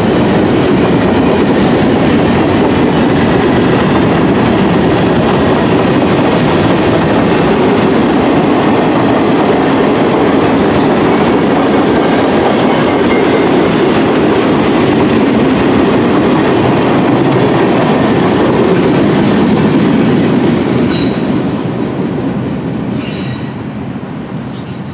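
CSX freight train's cars rolling past on the rails: a steady, loud rumble of wheels on track that fades away over the last few seconds.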